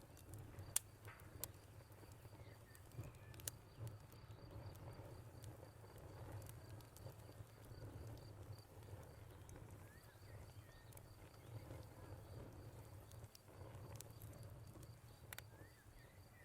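Wood fire crackling faintly, with scattered sharp pops and snaps over a low steady rumble.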